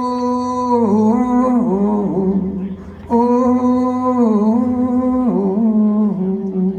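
A man humming a wordless closing melody in two long phrases, each held on one note and then falling away in pitch.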